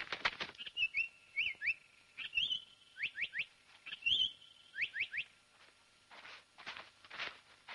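A quick run of light taps fades out within the first half second. Bird chirps follow: short rising whistled calls in twos and threes over a faint steady tone, ending a little after five seconds. From about six seconds in come soft, noisy footfalls, about two a second.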